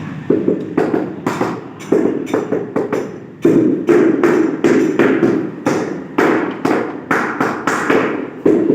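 Repeated dull taps on a large ceramic floor tile, about two a second, each with a short low ring. This is typical of a rubber mallet bedding the tile into its mortar.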